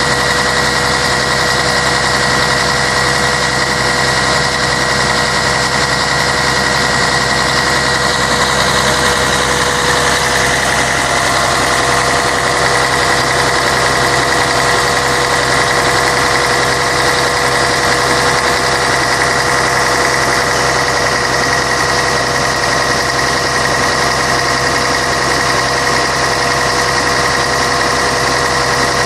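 Scania K113 bus's straight-six diesel engine running steadily, an even drone with steady whining tones over it; the tone shifts slightly about ten seconds in.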